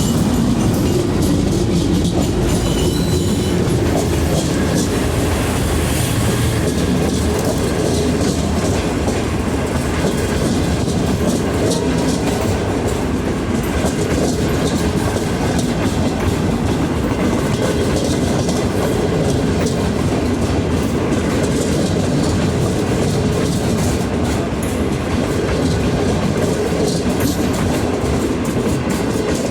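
Passenger train rolling steadily past, its wheels clicking over the rail joints.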